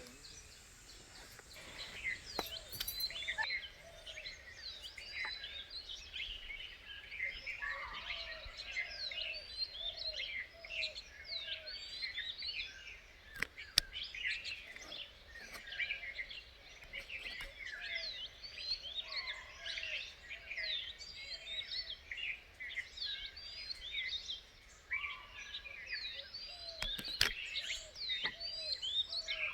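Many birds chirping and twittering at once in a dense chorus. A lower call repeats in an even series through the middle, with a couple of sharp clicks.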